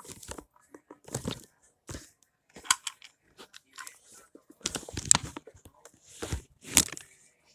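Plastic toys being handled and knocked together: irregular clicks, clacks and crunches, with the loudest knocks about five and seven seconds in.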